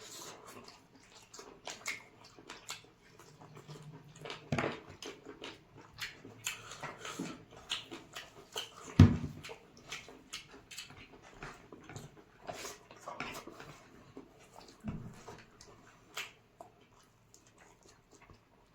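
Eating sounds: irregular chewing, lip-smacking and small clicks of people eating chicken curry and rice. A single loud thump comes about nine seconds in, and the sounds thin out near the end.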